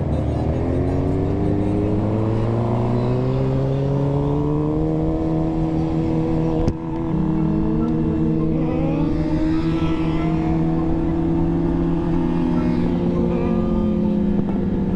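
Suzuki GSX-R sportbike's inline-four engine under way, its pitch climbing steadily over the first few seconds and then holding at a cruising speed. A single sharp click comes about seven seconds in.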